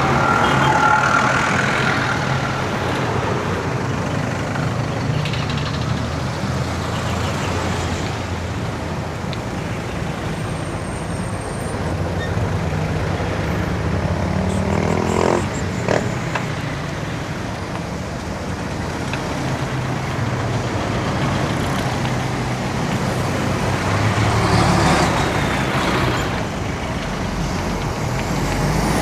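Road traffic: motor vehicle engines running and passing close by, a steady rumble that swells and fades as vehicles go past. There is a single sharp click about halfway through.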